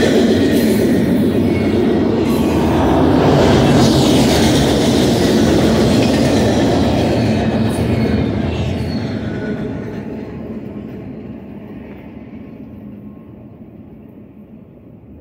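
Double-stack intermodal well cars rolling past on the mainline, a steady rumble of wheels on rail. The last car goes by about eight seconds in, and the sound then fades away as the train moves off.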